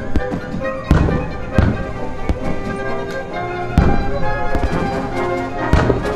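Aerial fireworks bursting, several sharp booms among smaller crackles, over orchestral music.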